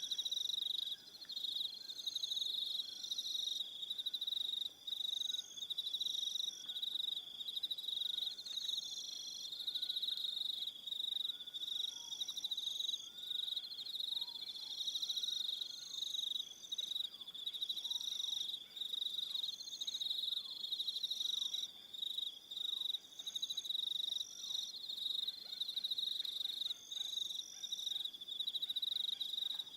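An evening chorus of crickets: a continuous high trill, with other insects chirping above it in short phrases that come and go.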